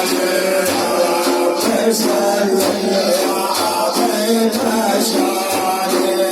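Sufi devotional music: frame drums with jingles beating a steady rhythm of about two beats a second under sustained sung tones.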